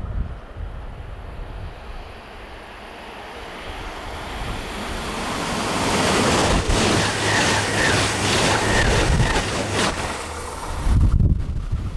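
ICE high-speed electric train running through a station at speed: a rushing of air and wheels that swells over several seconds, stays loud for about four seconds, then drops off sharply near the end, leaving wind buffeting the microphone.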